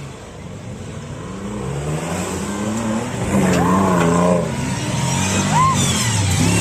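Off-road 4x4's engine revving up and down under load as it works over an obstacle, getting louder about three seconds in.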